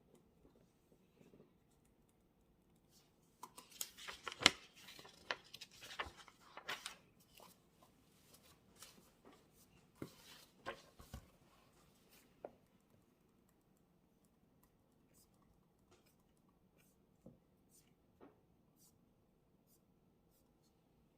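Rustling and a string of sharp clicks and taps as things are handled at a desk, busiest from about three to twelve seconds in, then only a few faint ticks, over a faint steady hum.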